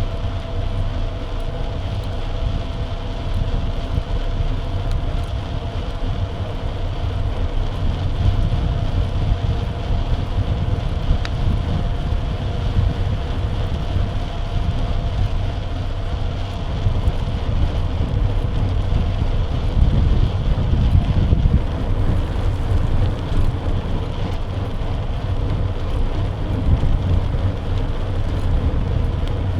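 Wind buffeting the microphone of a camera mounted on a moving bike, a steady low rumble with a faint hum of the ride running through it.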